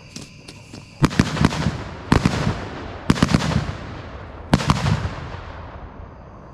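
Fireworks exploding in four clusters about a second apart. Each cluster is several sharp bangs in quick succession with a rolling echo. Not all of the pieces went off, or they blew each other up.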